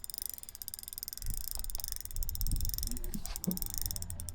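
Spinning fishing reel clicking rapidly as a hooked walleye is played on the line, over a low rumble.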